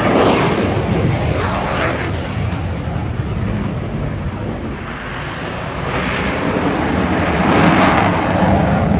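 Fighter jet's engine noise as it flies a display pass, loud and dense, easing a little in the middle and building again near the end.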